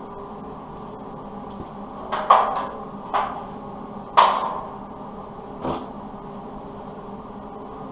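A string of sharp metal knocks and clanks with a brief ring, about six in all between two and six seconds in, the loudest two a couple of seconds apart, over a steady hum. It is metal being handled and struck while a steel patch piece is fitted to a truck fender.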